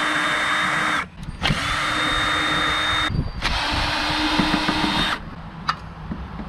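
Cordless power drill with a socket extension spinning out the mower's bolts in three runs of steady motor whine, each a second and a half to two seconds long with short pauses between. The motor stops about a second before the end.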